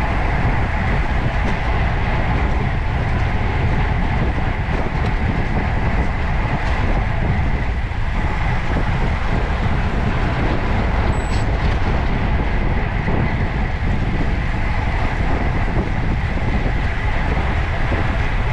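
Steady rush of wind and road noise from riding a road bike, heavy at the low end, with no breaks.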